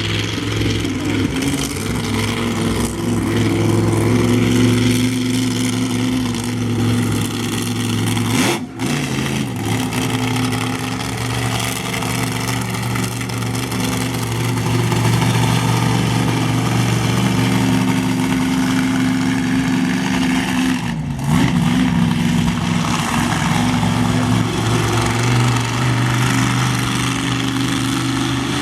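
Monster truck engine running with a steady low rumble, its pitch shifting briefly about two-thirds of the way through, broken by two very short dropouts.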